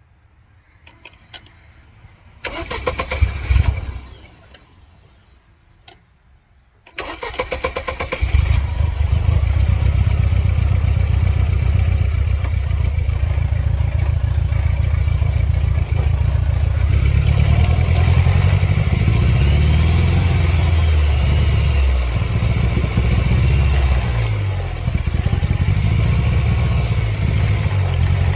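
Mercedes-Benz C230 Kompressor's supercharged four-cylinder engine cranked on the starter: a brief crank a few seconds in, then a second crank about seven seconds in that catches and settles into running. The idle is rough and uneven, its pitch wandering up and down, with the mass airflow sensor unplugged; the engine is running poorly.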